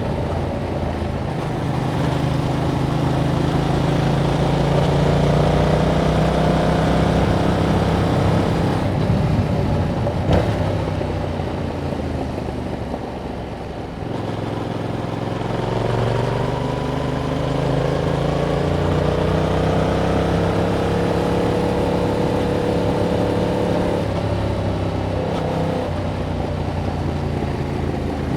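Yamaha MT-07's 689 cc parallel-twin engine running through its stock exhaust under way. It pulls with a rising pitch, eases off with a falling pitch about a third of the way in, then pulls again in a long rise before a brief let-off near the end.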